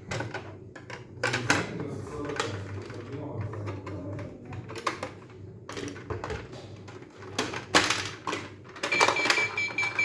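Plastic pieces of a toy shape sorter clicking and knocking irregularly as they are handled. About nine seconds in, a rapid run of short, high electronic beeps starts from the toy.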